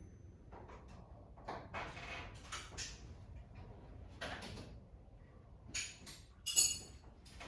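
Metal sockets and tools being handled and set down: scattered light knocks and rattles, then two sharp metallic clinks near the end, the second the loudest.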